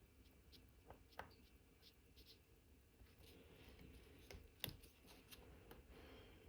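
Faint, irregular clicks and light scraping of a watchmaker's tools handling small parts of an Omega Cal.1109 movement during reassembly, with one sharper click about two-thirds of the way in.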